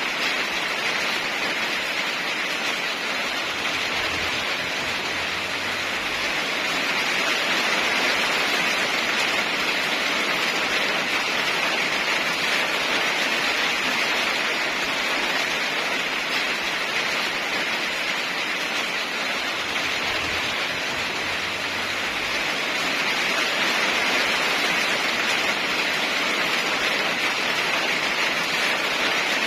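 Heavy rain falling steadily, an even hiss that swells slightly louder twice.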